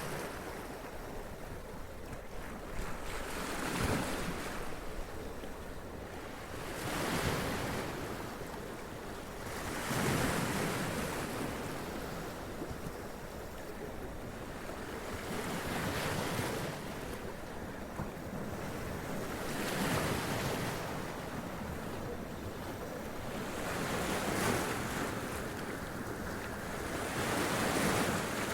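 Sea waves washing up onto rocks and splashing, each surge swelling and falling away every few seconds over a steady wash of surf.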